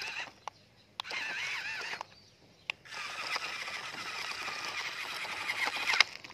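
Birds chirping and trilling in two stretches, with a few sharp clicks of plastic toy trucks being handled; the loudest click comes near the end.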